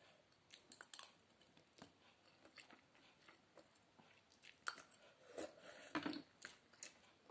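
Faint mouth sounds of a person chewing spaghetti-noodle sopas, with scattered small clicks and a few louder ones in the second half.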